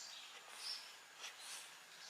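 Faint, sparse songbird chirps: a few short, high notes in a lull between louder song phrases.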